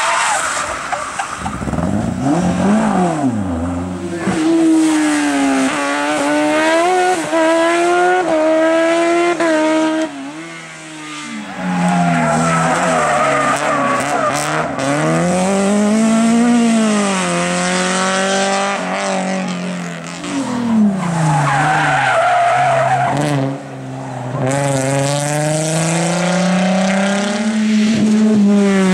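Race car engines revving hard, pitch climbing and falling again and again as the cars accelerate, shift and brake. The sound changes abruptly about a third of the way in and again near the end, as one car gives way to another.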